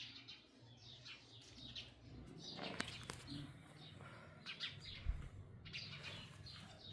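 Small birds chirping repeatedly: short, falling chirps in clusters. A brief low thump comes about five seconds in.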